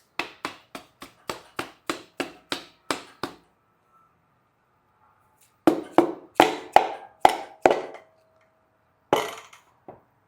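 Rubber mallet tapping a Nippon high-compression piston down into a Honda H22 cylinder bore: about eleven quick even taps, a pause, then seven harder taps and one last one.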